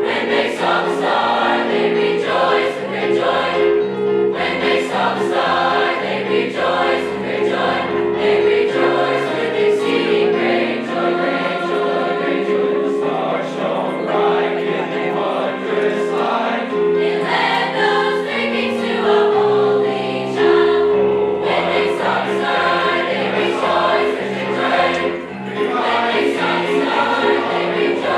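A high-school choir singing, with held notes over a low line that moves in steps.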